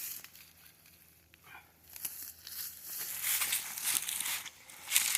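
Close crinkling and rustling handling noise, many irregular small crackles, starting faint and growing louder about two seconds in.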